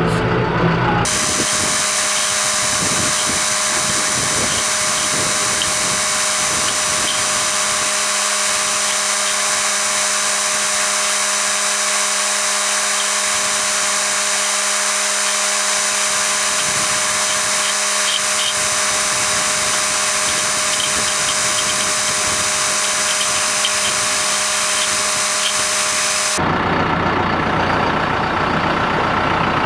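Steady high-pitched mechanical whine and hiss with several fixed tones, like a motor-driven machine running at constant speed. It starts about a second in and cuts off abruptly near the end, giving way to a lower engine rumble.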